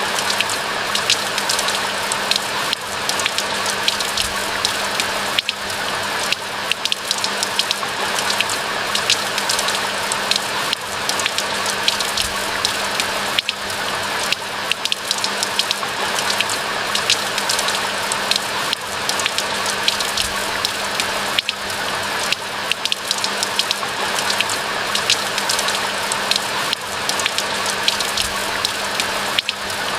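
Steady rain falling in a forest: a dense, even hiss with many individual drop patters, unchanging throughout.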